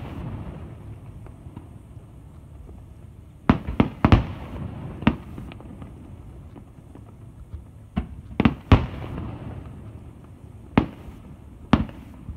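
Aerial firework shells bursting overhead in sharp booms, in clusters of several about three and a half, eight and a half and eleven seconds in, with a low rumble between the bangs.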